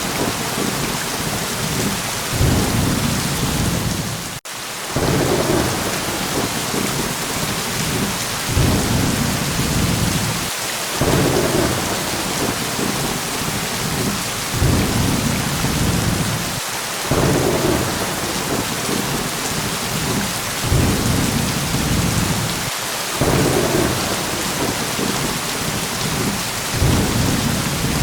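Steady heavy rain with low thunder rumbles that swell and fade every two to three seconds. The sound briefly cuts out about four seconds in.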